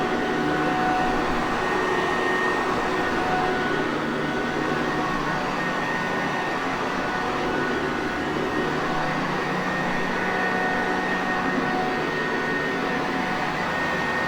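Sanitaire Perfect vacuum cleaner running steadily: a constant motor whir and rush of air, with a faint hum and thin whine tones held under it.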